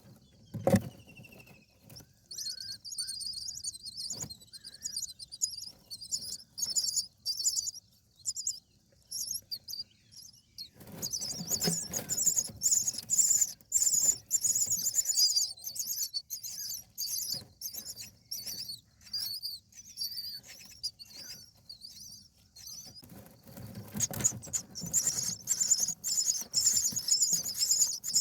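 Indian myna nestlings giving begging calls: bursts of rapid, high-pitched, hissy chatter that come and go. Scratching and rustling in the nest sounds under it, heaviest in two stretches, about ten seconds in and again near the end.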